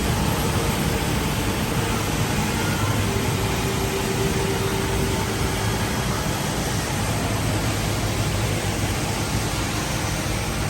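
Steady, even rushing roar of the Rain Vortex, a 40-metre indoor waterfall of pumped, recirculated rainwater falling into its basin.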